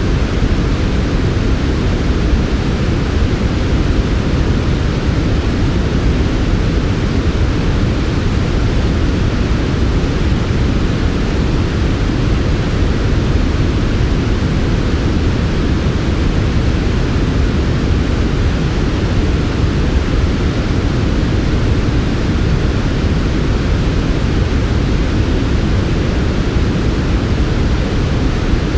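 Steady generated sleep noise, an even hiss with no rhythm or tones. It is heavier in the low end than flat white noise, a deep rush with a softer hiss above, and it stays unchanged throughout.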